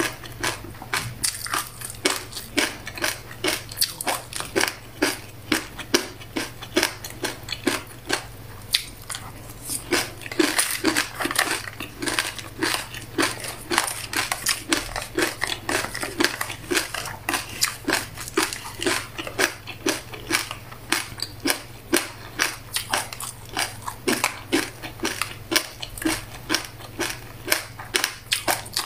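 A person chewing a mouthful of buckwheat groats and black sesame seeds with passion fruit: a steady, rapid run of crunches, a few each second, that never lets up.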